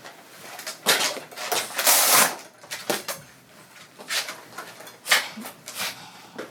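Irregular scratchy strokes of a grooming brush being worked through a dog's coat, the longest about two seconds in, mixed with small knocks and clatter.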